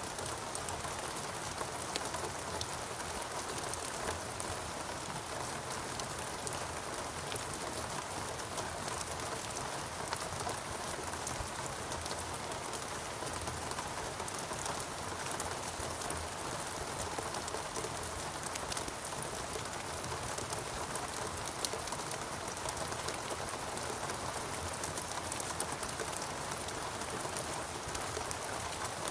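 Steady rain falling, an even hiss with individual close drops clicking here and there.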